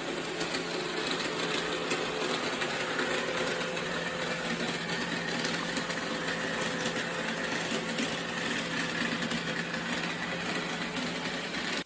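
Roomba Combo i5 robot vacuum running: a steady mechanical whirr with a constant low hum from its motor and brushes.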